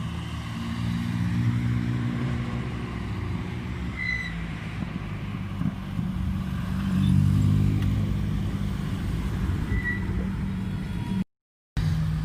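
Car engines running and revving, swelling louder twice, around a second in and again about seven seconds in; the sound cuts out briefly near the end.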